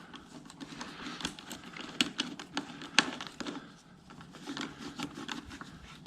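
Plastic parts of an electric pressure washer being handled and fitted together by hand: scattered sharp clicks and taps with light rustling.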